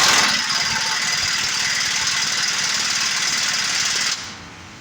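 Pneumatic tool running in one loud, steady burst of about four seconds, then cutting off.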